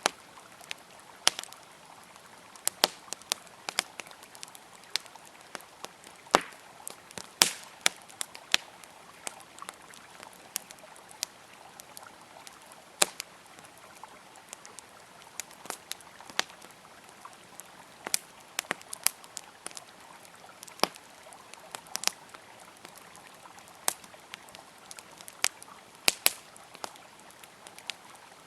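Wood campfire crackling, with irregular sharp pops of varying loudness, over the steady rush of a flowing river.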